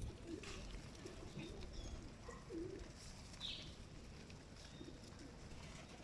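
Pigeons cooing: a string of soft, low coos repeating through, with a few brief higher-pitched chirps mixed in.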